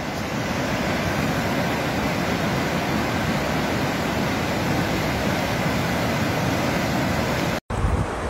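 Steady, even rushing noise with no distinct events. It drops out briefly near the end, then comes back rougher and heavier in the low range.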